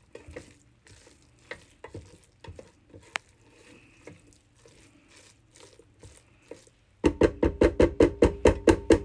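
A utensil clicking and scraping softly in a pot of rice and vegetables. About seven seconds in, a loud, rapid run of evenly spaced ringing knocks starts, about five a second.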